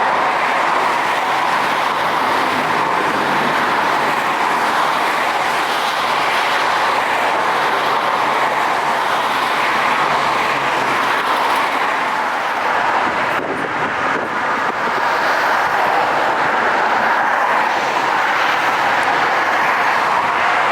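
Steady roar of jet aircraft engines, with a brief dip about 13 seconds in.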